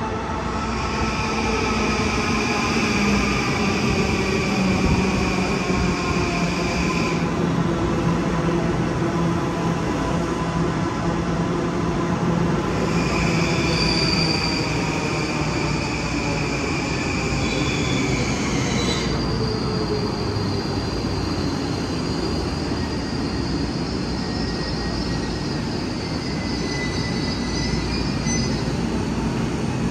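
Long Island Rail Road electric multiple-unit train running through the underground station, its motor whine slowly falling in pitch as it slows, over a steady rumble. High-pitched wheel squeal comes in twice, for about six seconds each time, the first near the start and the second in the middle.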